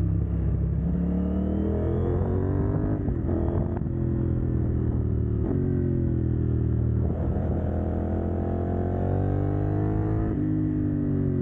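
CFMoto 800NK's parallel-twin engine through a decat exhaust, accelerating hard. The pitch climbs steadily and drops sharply at each of about four upshifts.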